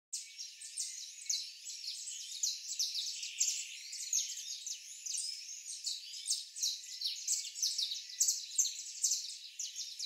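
A chorus of many birds chirping and singing, a continuous stream of short, quick chirps with no low sound beneath them.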